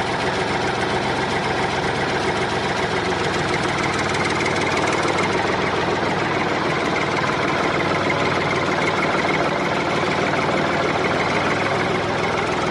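Small engine of a homemade mini tractor running steadily at an even speed, with a dense rapid firing chatter.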